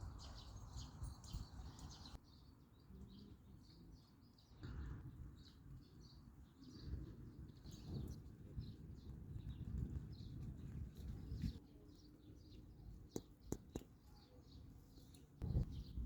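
Small birds chirping and twittering over a faint low rumble, with a few sharp taps about thirteen seconds in.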